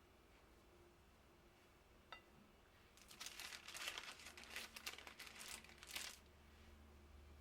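A single soft click, then about three seconds of irregular crinkling and rustling that stops abruptly.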